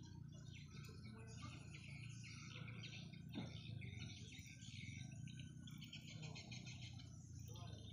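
Small birds chirping and twittering faintly and almost without pause, over a low steady background hum. A brief falling swish comes about three and a half seconds in.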